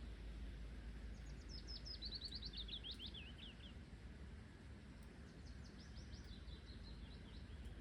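A songbird sings two phrases of quick high notes, each sliding down in pitch, about a second in and again about five seconds in. Under it runs a steady low rumble from the sky that sounds like an airplane but does not move.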